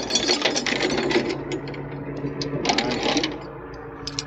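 A steel tow chain rattling and clinking as it is handled, in dense runs of quick clicks for the first second or so and again about three seconds in, over the steady hum of an idling engine.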